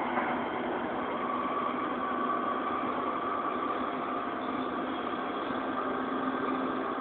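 Copenhagen Metro train giving a steady hum with faint, even whining tones over it.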